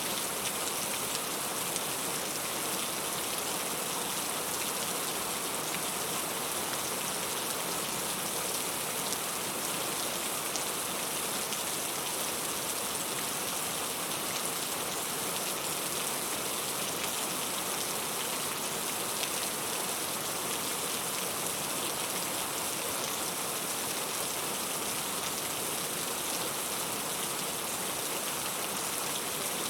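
Steady rain falling, a dense even hiss of many drops, without let-up.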